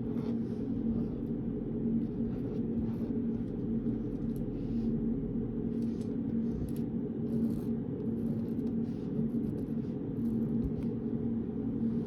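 Steady low hum of a quiet study room, carrying a constant tone, with faint scattered scratches and taps of a pen writing on paper.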